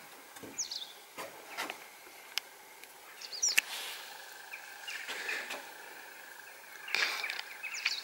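Small birds chirping in short, quick calls, with a few sharp clicks and knocks scattered through.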